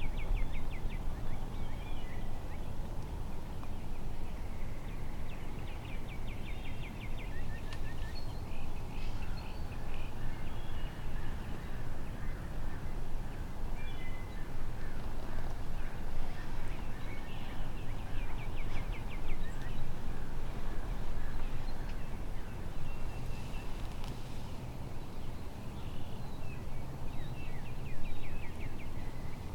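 Wild turkey gobbler gobbling several times, each gobble a quick rattling run of notes, over steady wind noise, with a few small-bird chirps.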